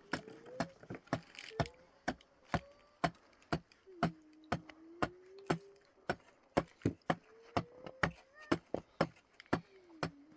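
Steady, rhythmic chopping with a blade striking a block, about two to three sharp strikes a second.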